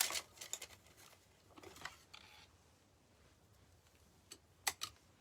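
Craft paint bottles being handled at a table: a few sharp clicks, three of them close together near the end, with brief soft rustles between.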